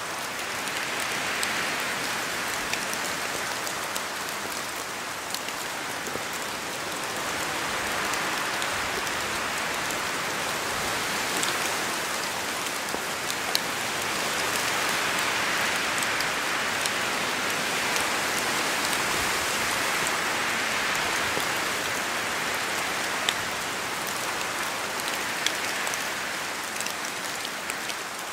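Steady rain falling in a forest, with sharp taps of single drops falling from the trees. The hiss swells and eases in slow waves every several seconds, like gusts of wind moving through the canopy.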